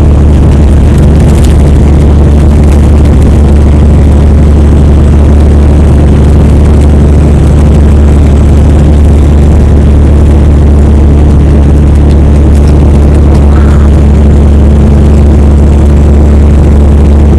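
Semi truck's diesel engine running with an even, unbroken low drone.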